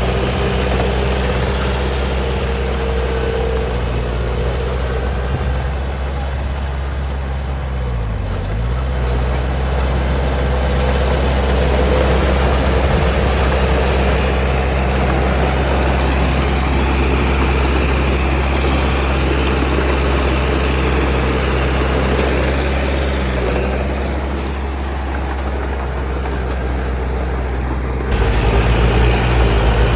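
Heavy diesel engine running steadily, with its pitch dipping briefly twice as the revs sag. The sound changes abruptly to a louder, deeper hum near the end.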